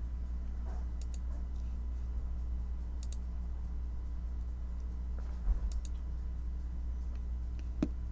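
A few separate computer keyboard keystrokes, single clicks spaced seconds apart, over a steady low hum.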